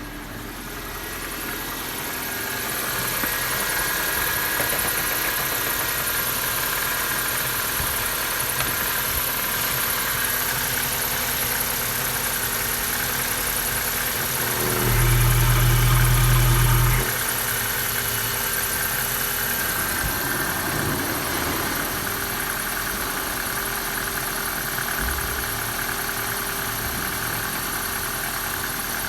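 Mazda 323F (BA) 1.5-litre Z5 inline-four petrol engine idling steadily. A little past halfway it gets louder and deeper for about two seconds, then settles back to idle.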